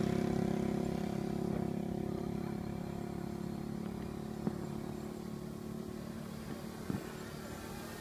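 Motor and propeller of a 3D-printed model airplane droning steadily and slowly fading, with two brief clicks about halfway through and near the end.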